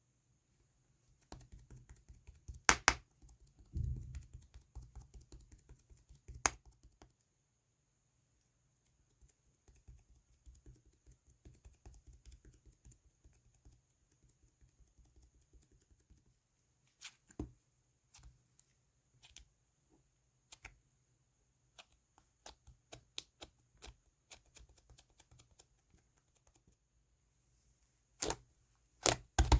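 Clay-mixed slime being squished and pressed by hand: scattered small clicks and pops, with a few sharper ones and a soft thud, growing denser near the end.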